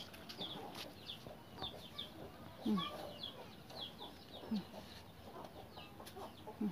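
Faint bird calls: a steady run of short, high chirps, each falling in pitch, with two lower falling calls about a third and two thirds of the way through.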